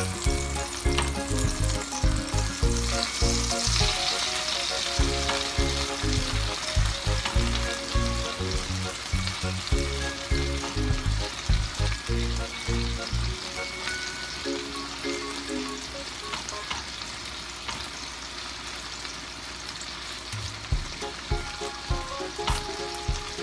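Ahi tuna steaks and pineapple frying in sauce in a nonstick pan: a steady sizzle, with a spatula moving through the pan. Background music with a low beat plays over it for about the first half and comes back near the end.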